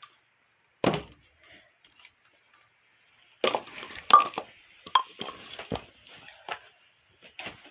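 Bowling pins being struck: a series of separate hard wooden knocks and clatters, one about a second in, a quick cluster around the middle, then single knocks spaced out toward the end.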